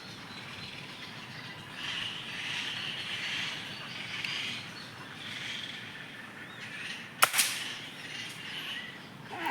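A steady background chorus of jungle birds and insects, with a single sharp gunshot about seven seconds in, fired at birds.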